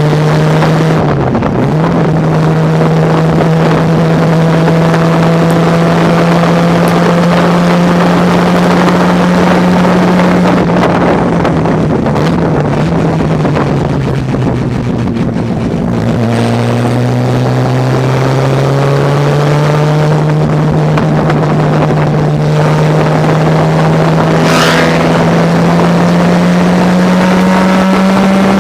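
Onboard sound of a racing car's engine at high revs, its note climbing slowly as the car accelerates. It dips briefly about a second in and again about halfway through, where the note drops and then climbs again, as at a lift or gear change.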